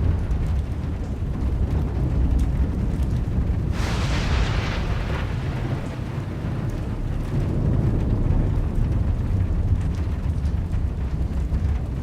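Storm: a continuous low rumble, with a louder, sharper burst about four seconds in that fades over about a second.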